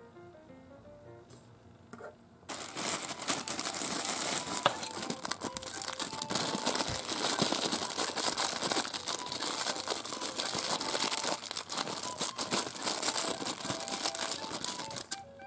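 Thin clear plastic bag crinkling and crackling as a small toy figurine is handled and unwrapped from it by hand. It starts abruptly about two and a half seconds in and stops near the end.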